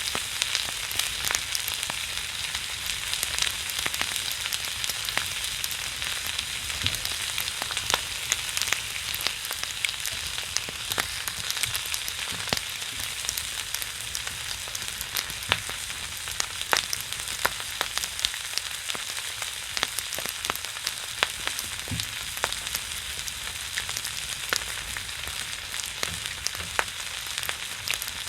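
Pork belly sizzling and spattering fat on a griddle over a pine-wood fire: a steady hiss dotted with frequent sharp pops.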